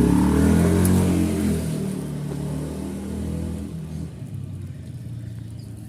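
A motor vehicle engine, loud at first, then slowing, its pitch and level falling steadily as it winds down.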